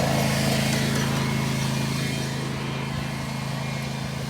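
Riding lawnmower's small engine running steadily under way, its drone easing slightly in level over the last couple of seconds.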